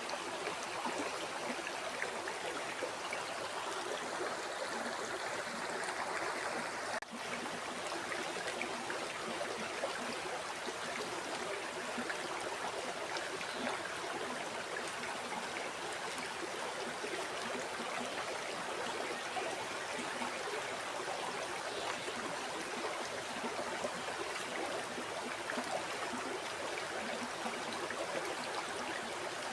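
River water flowing and splashing steadily, with a very short dip in level about seven seconds in.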